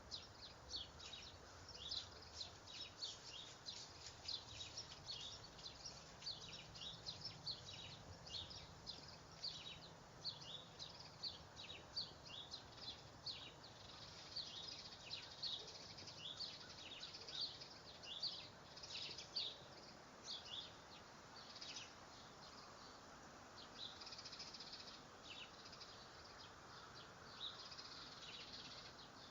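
Small birds chirping: a dense run of short, high chirps, several a second, that thins out somewhat near the end.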